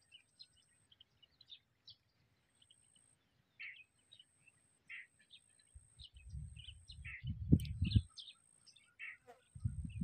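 Small birds chirping in short, scattered notes. About six seconds in, a loud low rumble buffets the microphone until about eight seconds, and it starts again near the end.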